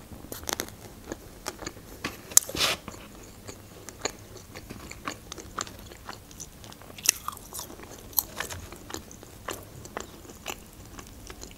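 A person chewing and biting food, first tomato soup from a spoon and then french fries, with scattered short mouth clicks and small crunches.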